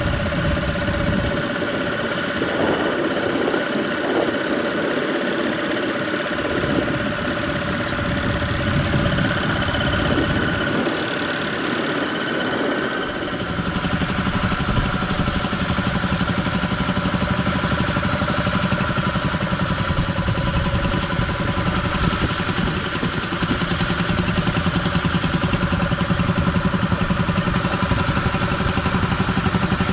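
Tractor engine running steadily. About thirteen seconds in its note changes to a deeper, more pulsing sound that stays louder to the end.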